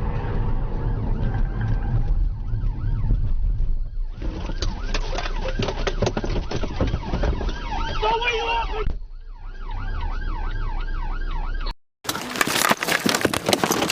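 Police car siren on a fast yelp, its pitch rising and falling about three times a second, over the steady rumble of a car engine and road noise. The sound cuts out briefly about twelve seconds in, then the siren carries on.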